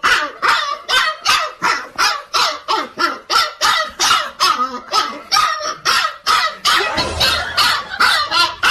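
A dog barking over and over in a fast, steady run of about three barks a second.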